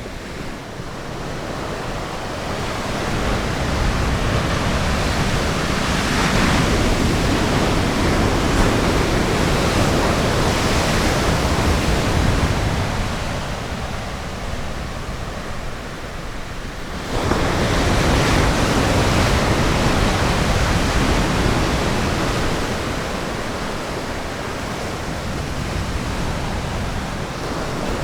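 Ocean surf breaking and washing up the shore in slow surges; a wave crashes suddenly about two-thirds of the way in, then the wash fades off.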